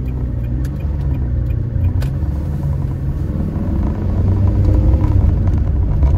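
2000 Ferrari 360 Modena's V8 heard from inside the cabin as the car pulls away, the engine note rising and falling with the revs, then getting louder about four seconds in as it accelerates.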